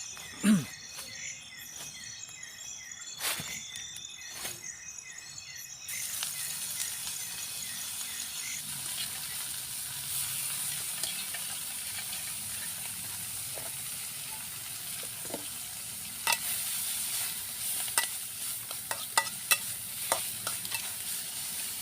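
For the first few seconds, insects trill steadily with a single thump about half a second in. About six seconds in, the sound changes abruptly to food sizzling as it fries in a pan over a campfire: a steady hiss with sharp pops and crackles, which come more often near the end.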